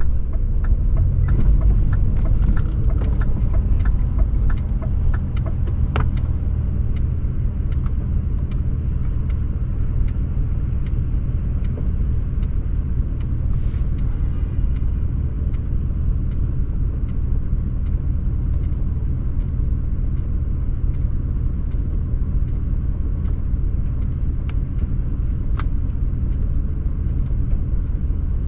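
BMW E39 540i's V8 engine and exhaust droning steadily as the car drives, a low rumble a little louder in the first few seconds. Many faint clicks and ticks sound over it in the first several seconds, then only now and then.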